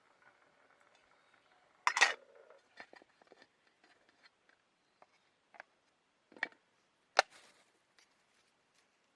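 Irregular clicks, knocks and clatters of small objects being handled: the loudest is a short clatter about two seconds in, then a sharp knock about seven seconds in.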